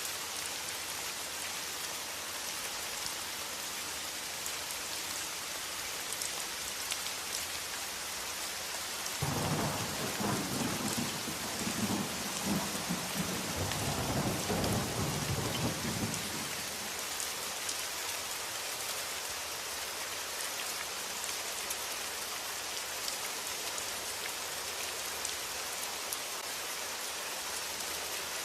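Steady rain falling, with a roll of thunder that rumbles low for about seven seconds, starting about a third of the way in.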